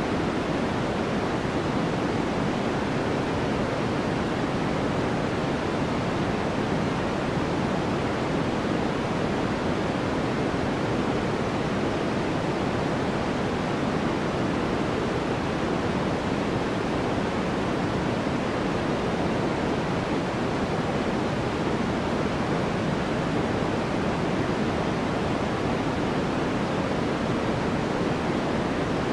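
Steady synthesized noise of the kind played as white noise for sleep, even and unchanging throughout. It carries more weight in the lows and mids than in the highs.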